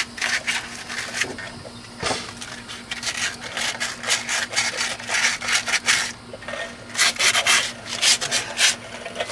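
Hand sanding with 80-grit sandpaper, scrubbing rust off the metal seat where the wheel hub mounts. The sandpaper rasps in runs of quick back-and-forth strokes, pausing briefly twice.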